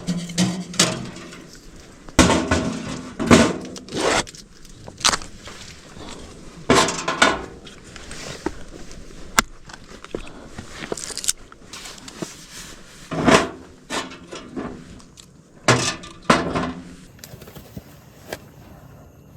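Irregular knocks, clatters and rustling of objects being handled, with a few louder thuds spread through.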